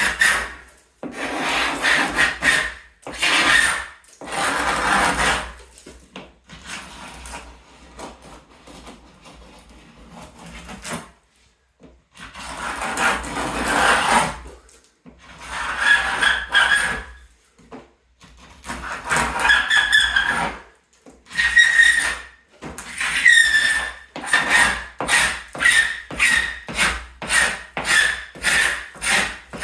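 Hand scraper scraping loose paint off wooden woodwork, down to a sound layer, in rasping strokes: longer drawn strokes at first, then quicker short strokes at about two a second from about two-thirds of the way through.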